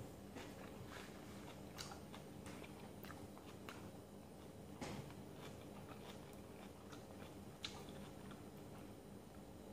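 A person chewing and biting into chicken and vegetables, with scattered soft mouth clicks and smacks, the sharpest about two, five and seven and a half seconds in.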